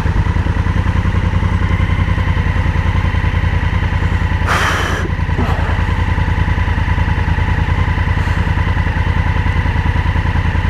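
Motorcycle engine running at a steady, even pulse while riding, with a brief rushing noise about halfway through.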